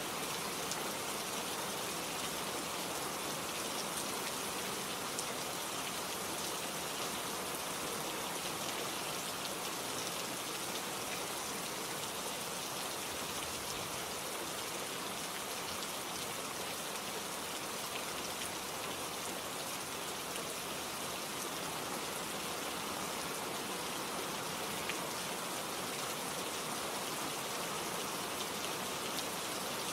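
Steady rain falling, with many small drops pattering on leaves and surfaces and no change in intensity.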